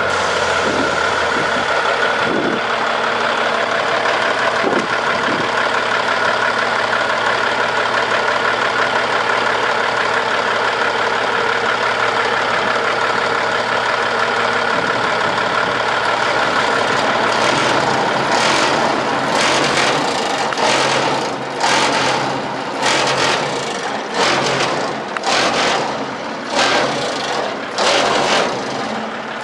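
A 1996 International dump truck's diesel engine running steadily at idle. About halfway through, short surges start, roughly one a second, and go on to the end.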